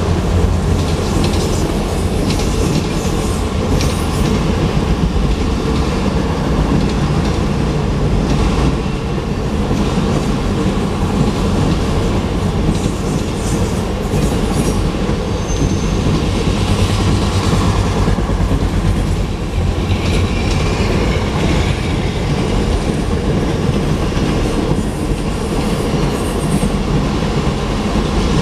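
Freight train of autorack cars rolling past: a steady rumble of steel wheels on rail, with clickety-clack as the wheels cross the rail joints. A brief high squeal comes about fifteen seconds in.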